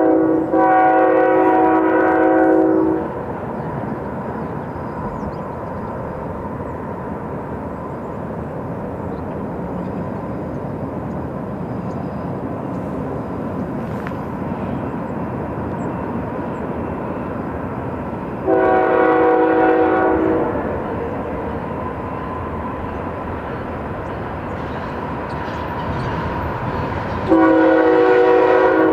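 Diesel freight train locomotive horn sounding three long chord blasts, about 15 s and 9 s apart, the last one still going at the end. Between the blasts there is the steady rumble of the locomotives and train running by at about 38 mph.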